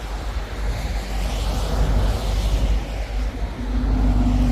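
Wind buffeting the microphone: a loud, uneven low rumble with a rushing hiss over it. About three and a half seconds in, a steady low hum joins it.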